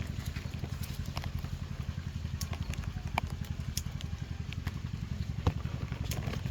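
A small engine running steadily with a fast low pulse, with scattered sharp clicks over it.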